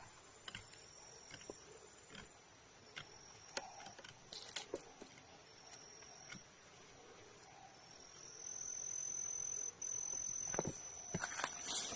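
An insect, cricket-like, trilling on one steady high pitch, faint and broken at first, then held continuously and louder from about eight seconds in; scattered light clicks and rustles over it, thickening near the end.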